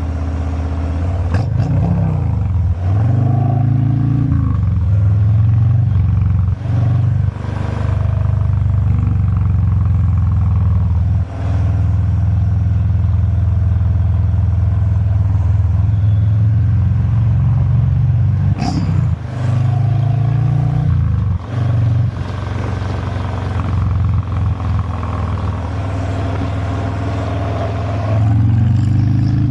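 Harley-Davidson Fat Boy 114's Milwaukee-Eight V-twin engine running under way, a steady low exhaust note. The revs rise and fall several times, with a few brief dips in between.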